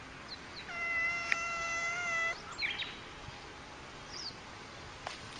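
A cat giving one long, steady yowl lasting about a second and a half, with a sharp click partway through. A few short high chirps come before and after it.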